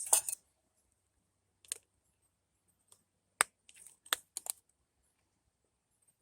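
Scattered light clicks and taps of a small alcohol burner stove and its metal parts being handled and set up: a sharp click about three and a half seconds in, then a quick cluster of clicks.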